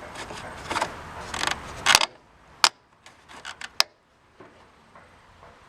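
Handling noises: rubbing and scraping for about two seconds, then a few separate sharp clicks and knocks; no engine running.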